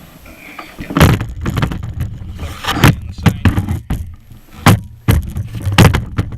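Irregular hollow knocks and thumps of gear being handled against a kayak's hull, about one or two clunks a second, as a board and paddle are set in place on the kayak.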